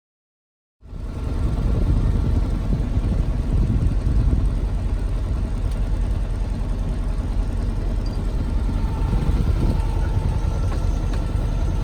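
A sailboat's engine running steadily while the boat motors along, starting less than a second in after a short gap of silence.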